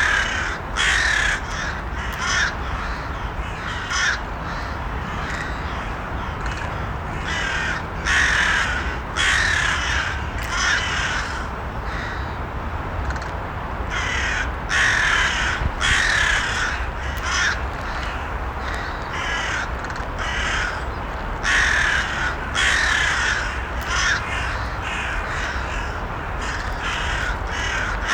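Crows cawing again and again, harsh calls in short runs of a few caws each, with a lull of about two seconds near the middle. A steady low background noise runs underneath.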